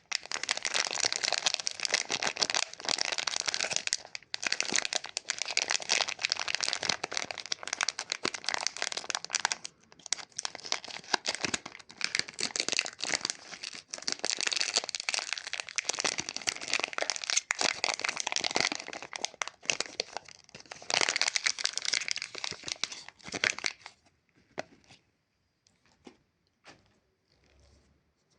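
Plastic lollipop wrapper being crinkled and torn open in dense crackling stretches with short pauses; it stops about 24 seconds in, leaving a few faint clicks.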